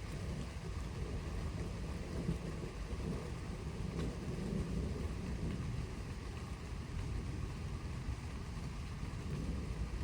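Distant thunder rumbling low and continuously over rain, swelling a little in the middle.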